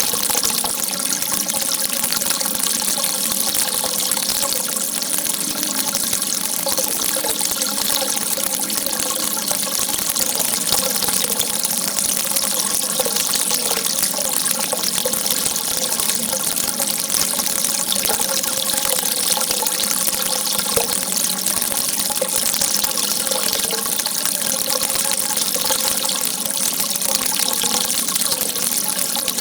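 Water shooting out in a steady jet, a continuous gushing hiss that never lets up.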